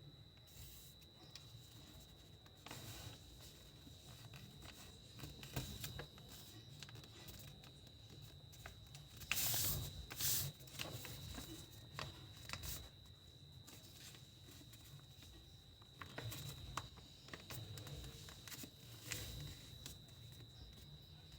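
Faint rustling and crisp crackles of a sheet of paper being handled and folded into a paper airplane, with two louder rustles about halfway through. A thin steady high whine sits underneath.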